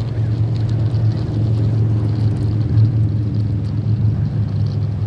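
A loud, steady low rumble that wavers unevenly in strength.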